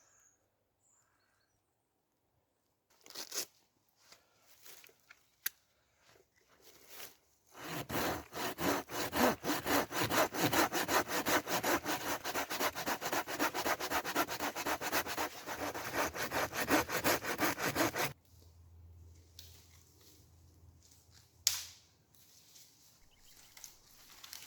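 A hand saw cutting through wood, likely a branch, in fast, even strokes for about ten seconds, then stopping. Light rustling and handling noises come before and after.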